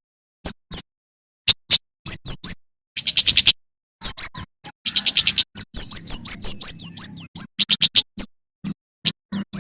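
Male prenjak keres (kemade jawa) singing: rapid runs of sharp, high chirps that sweep downward, mixed with fast trills, in bursts separated by short pauses.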